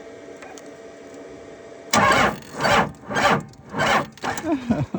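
Cummins diesel truck engine being cranked in the cold: about two seconds in, four loud, heavy pulses come about 0.6 s apart, then weaker ragged ones that die away without the engine catching. It is a hard cold start that fails to fire up.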